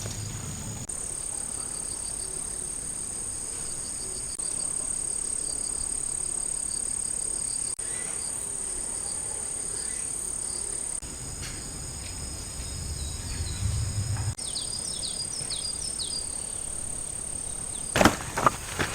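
Grass insects such as crickets trilling steadily in high, pulsing tones, with a few short sharp chirps partway through. A few knocks near the end.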